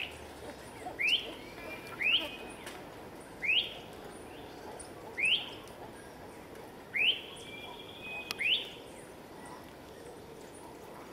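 A bird repeating a short rising whistle about seven times, one to two seconds apart, over a steady background hiss.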